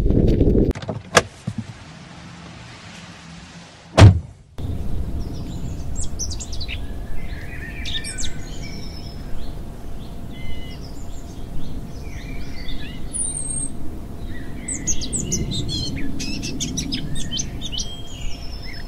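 Small birds chirping and singing over a steady low rumble. About four seconds in there is one loud thump.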